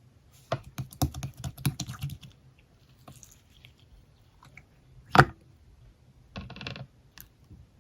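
Clicks and taps of small hard objects being handled, a quick cluster in the first two seconds, then one sharp knock about five seconds in and a short rattle soon after.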